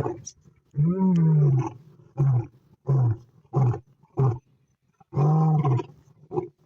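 An animal calling loudly over and over. Two long calls rise and fall in pitch, one about a second in and one about five seconds in, with shorter calls of about a third of a second between them.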